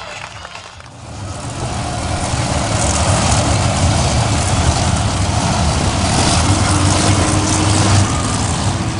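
Monster truck engine running loud, swelling up about a second in and holding at high revs.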